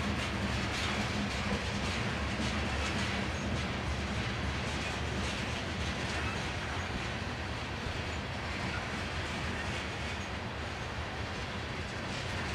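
Freight train of covered grain hopper cars rolling past, a steady rumble of steel wheels on rail with faint repeated wheel clicks.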